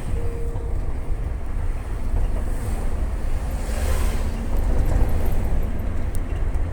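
Steady low rumble of wind buffeting the microphone, mixed with road and engine noise from a moving vehicle.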